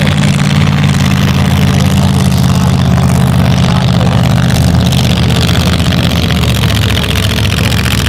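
Hot rod drag car engine running steadily at a low, even pitch, a deep rumble with no revving; its tone shifts slightly about five seconds in.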